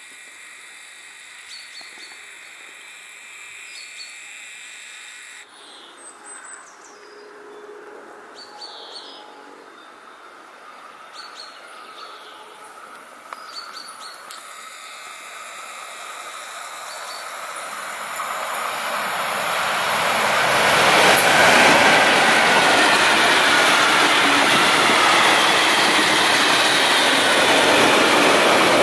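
Electric freight train of tank wagons approaching, growing louder from about halfway in, then passing close with a steady noise of wheels on rails. Birds chirp in the first half.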